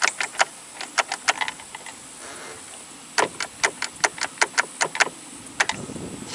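A run of sharp, irregular clicks and taps, with a quicker, evenly spaced run of about five a second in the middle: tools or parts handled while the riding mower's wiring is worked on.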